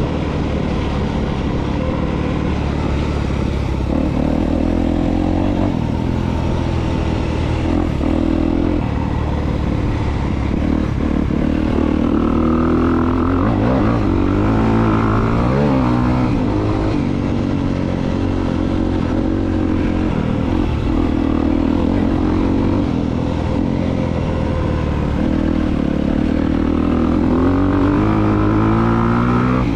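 2022 Honda CRF250R dirt bike's single-cylinder four-stroke engine running under way, its pitch rising and falling over and over as the throttle is opened and closed.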